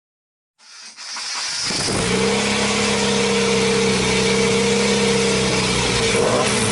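A motor speeds up over the first couple of seconds and then runs at a steady high speed, a constant whine over loud rushing noise.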